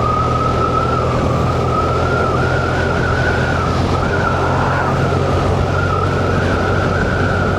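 Motorcycle riding at steady road speed: the engine's even drone under constant wind and road noise, with a wavering whine that creeps slowly up in pitch.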